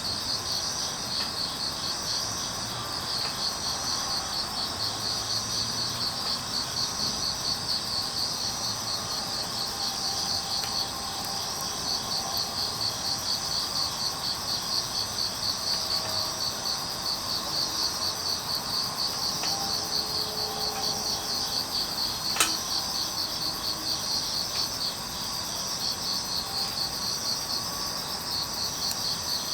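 Field crickets chirping in a steady, evenly pulsing chorus, with one sharp pop from the burning firewood about three-quarters of the way through.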